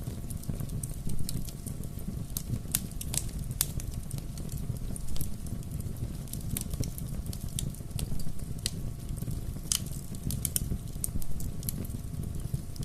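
Bonfire crackling: a steady low rumble under irregular sharp pops and snaps, a few of them louder than the rest.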